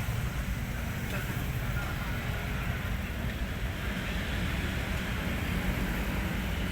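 Hino 500 truck's diesel engine running steadily.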